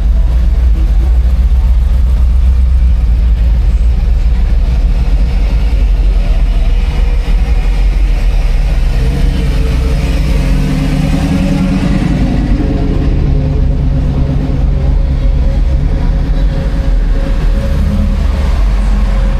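A car engine running close by, with a low steady rumble, growing louder about nine seconds in and easing off a few seconds later.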